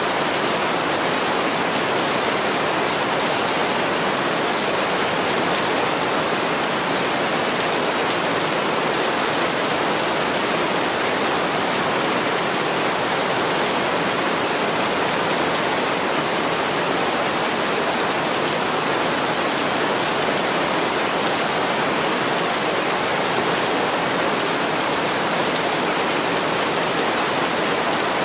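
Heavy rain falling steadily on a window pane, a dense, even hiss that does not let up.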